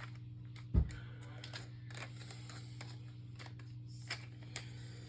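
Plastic scale-model truck parts handled on a work surface: one knock about a second in, then a few faint clicks, over a steady low electrical hum.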